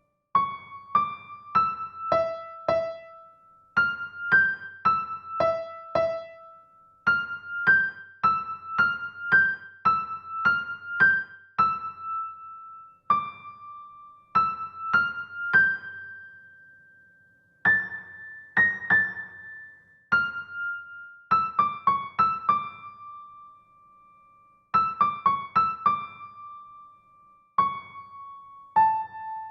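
A piano-sounding keyboard plays a slow melody, mostly single notes, each struck and left to ring and fade, with a couple of brief pauses in the line.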